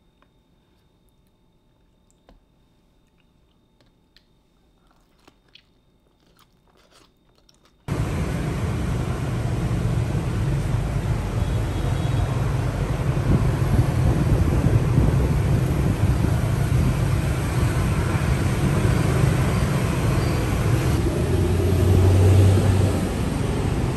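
Faint eating sounds: a few light clicks of chopsticks and soft chewing of stuffed eggplant rolls. About eight seconds in it cuts suddenly to loud, steady outdoor street noise, a rumble of passing traffic and motorbikes.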